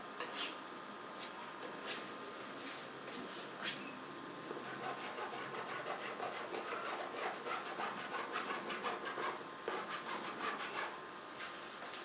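A paintbrush scrubbing and dabbing on paper. A few separate taps come first, then a quick run of small scratchy strokes from about five seconds in until near the end.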